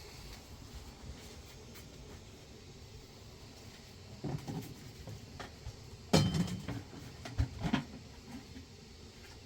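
A few knocks and clatters of objects being handled, the loudest about six seconds in, over a low steady background noise.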